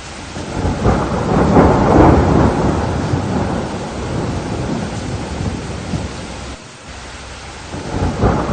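Thunder rumbling over steady rain: a long roll builds in the first two seconds and fades away over the next few, then another roll starts to build near the end.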